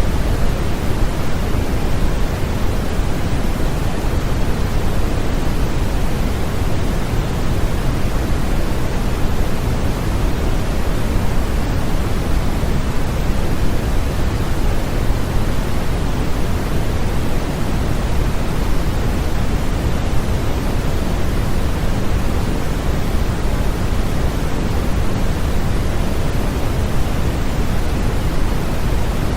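Steady, unbroken synthetic noise, heavier in the low end than the top, like pink noise: a continuous white-noise sleep track.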